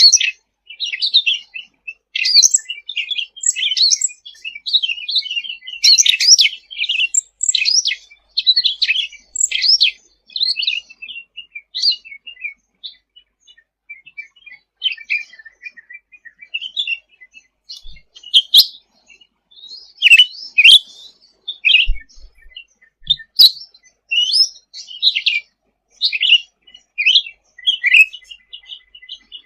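Cucak ranting (cucak rante) songbird singing continuously: fast, high chirps and short trills run one into another, thinning out for a few seconds near the middle before picking up again.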